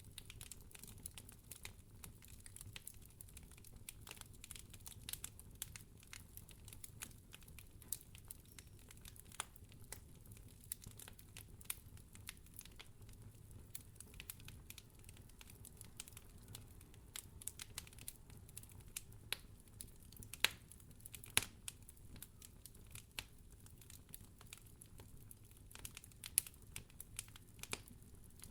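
Wood fire crackling in a fireplace: a steady scatter of small, irregular snaps and pops over a low rumble, with a few sharper pops about two-thirds of the way through.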